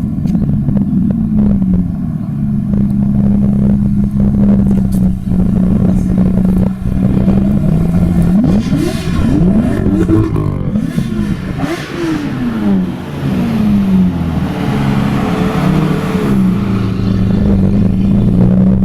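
Modified car engines: a steady idle, with scattered sharp clicks in the first seven seconds, then engine revs rising and falling between about eight and fourteen seconds in and once more briefly near sixteen seconds.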